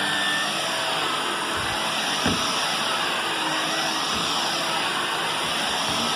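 Vacuum cleaner running steadily while it is pushed over carpet, with a single brief knock about two seconds in.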